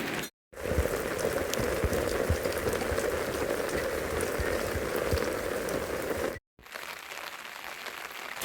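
Steady rain falling on a surface. It cuts out briefly near the start and again about six seconds in, and is quieter after the second break.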